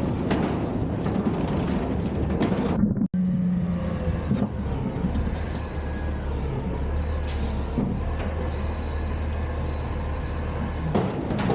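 Autocar/Heil Freedom front-loader garbage truck running, a steady low engine drone. For the first few seconds there are repeated clanks and rattles. The sound breaks off sharply about three seconds in, and after that the drone carries on steadier, with only a few faint knocks.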